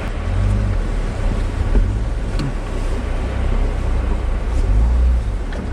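Off-road vehicle's engine running at low speed, a steady low rumble with a few faint ticks over it.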